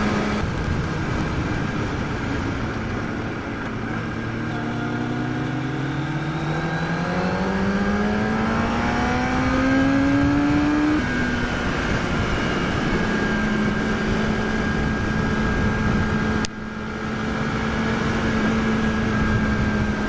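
Inline-four sport bike engine under way, heard over wind rush. The revs drop near the start, then climb steadily for several seconds as the bike accelerates. The note breaks off about eleven seconds in, then runs steady at cruising revs, with a brief dip about three quarters of the way through.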